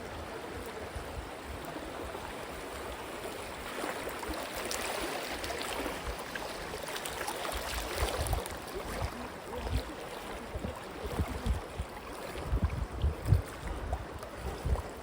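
River water rushing and splashing around an inner tube, swelling louder in the middle, with low bumps on the phone's microphone in the last few seconds.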